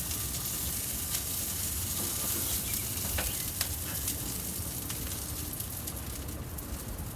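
Butter and fat sizzling steadily on a hot charcoal kamado grill as a whole chicken is basted, with scattered sharp crackles.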